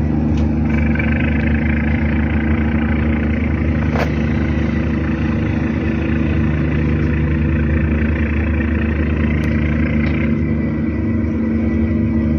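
A ship's diesel engine running steadily during berthing: a deep, even drone, with a higher machinery whine over it that stops about ten seconds in.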